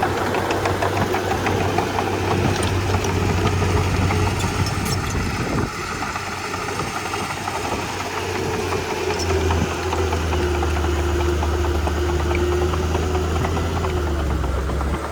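Komatsu D31P bulldozer's diesel engine running steadily, its deep hum dropping lower about ten seconds in.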